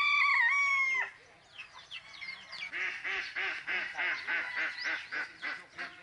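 A rooster crowing, its call wavering and then held before ending about a second in, followed by a quick run of short repeated fowl calls, about six a second, for nearly three seconds.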